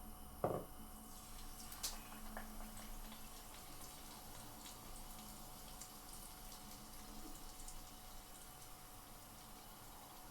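Batter-coated prawns frying in hot oil: a faint sizzle with scattered small crackles. A sharp clunk comes about half a second in and a smaller one near two seconds.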